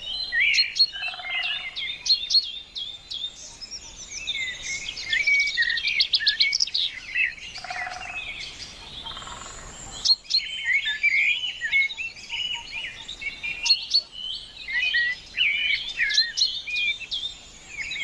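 Small birds chirping and singing in a busy, overlapping chorus of short high chirps, quick trills and sweeping notes, with two brief lower calls, about a second in and about eight seconds in.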